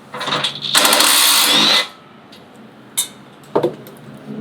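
A power tool runs for about a second with a slightly rising whine, then stops; two sharp knocks follow, likely metal parts or tools being handled.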